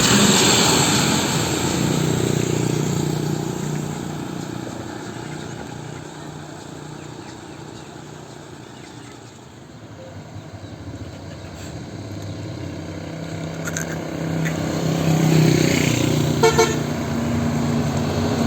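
Heavy vehicles passing on a road: one goes by and fades away, then another approaches. About two seconds before the end, a vehicle horn sounds a quick run of short toots.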